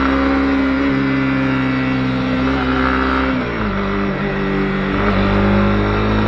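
Honda CB250R's single-cylinder engine running steadily under way, its revs dropping about three and a half seconds in and then holding at the lower pitch.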